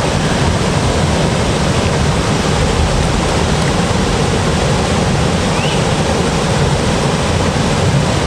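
Loud, steady rushing noise that keeps an even level throughout, with no pitch or rhythm.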